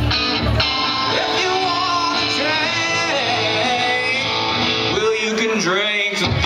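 Live rock performance: a man singing over strummed guitar and drums.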